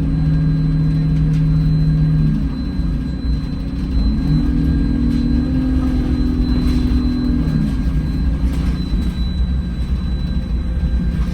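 Alexander Dennis Enviro200 single-deck bus heard from inside while driving: the diesel engine runs under low road rumble, its pitch shifting about two and a half seconds in, rising again around four seconds and dropping back near seven and a half seconds as it changes speed and gear. A thin steady high whine runs under it.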